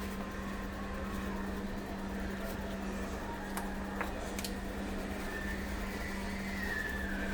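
Steady mechanical hum, like a small motor or fan running, with a few faint clicks about halfway through.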